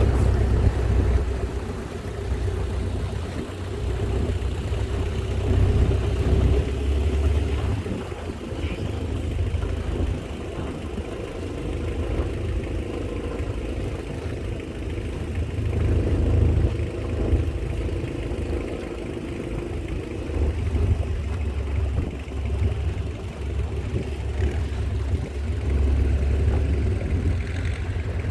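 Longtail boat engine running steadily, with a low rumble that swells and eases every few seconds.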